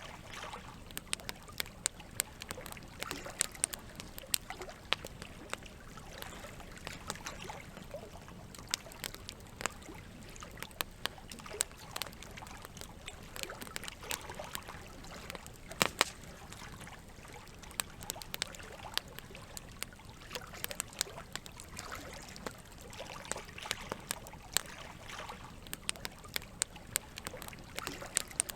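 Campfire wood crackling, with irregular sharp pops and snaps, the loudest about sixteen seconds in, over a steady wash of running water.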